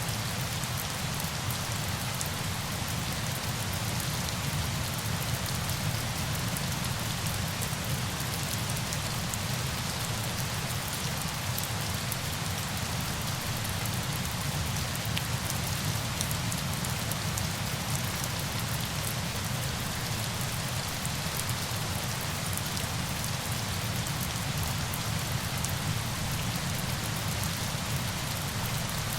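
Falling water: a steady, even rushing hiss with no change in level.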